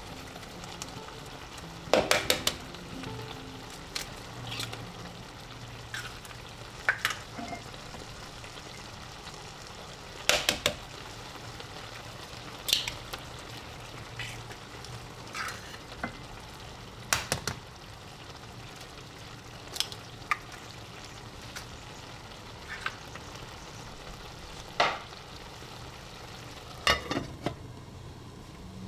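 Food sizzling steadily in a frying pan, with sharp clicks and knocks of a utensil against the pan every two or three seconds.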